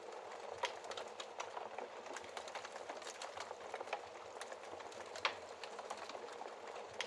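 Wood fire crackling in a fireplace: a steady hiss of burning wood with many small snaps, and two louder pops, about half a second in and about five seconds in.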